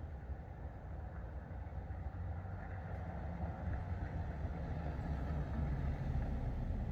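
Low, steady rumble with a fainter hiss above it, growing slightly louder midway.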